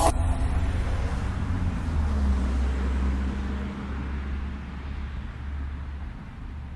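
A low rumble under a steady hiss, coming in abruptly and slowly fading away.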